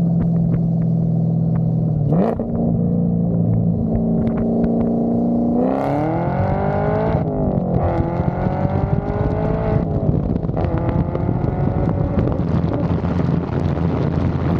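Chevrolet Camaro ZL1's supercharged 6.2-litre V8 running under way. It gives a brief rise and fall in revs about two seconds in, then a longer pull about six seconds in, its pitch climbing and dropping back at a gear change, followed by steadier running.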